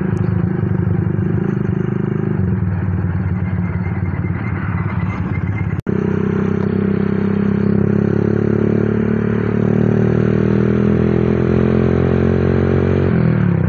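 Honda CB motorcycle with a Honda Tiger single-cylinder four-stroke engine bored up to 200cc, running on a DOS aftermarket exhaust while being ridden at a steady pace. The sound cuts out for an instant about six seconds in, and the engine note drops near the end.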